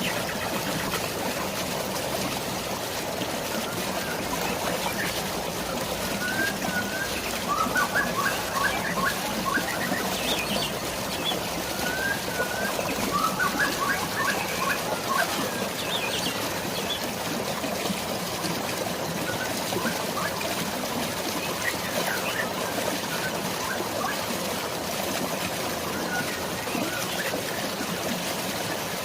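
Steady rushing of rain and falling water, with birds chirping over it in short runs of quick chirps, busiest about a quarter and half of the way through and sparser afterwards.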